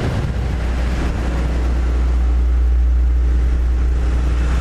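Yamaha MT-07 parallel-twin engine running steadily while riding, under heavy wind rush on the microphone.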